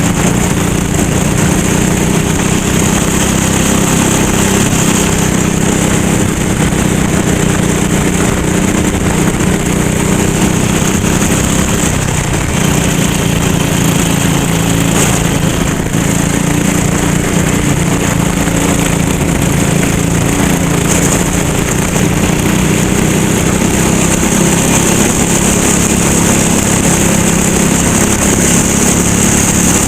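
Racing kart's small engine running hard under load, its pitch rising and falling with the throttle and dropping sharply about twelve seconds in before climbing again.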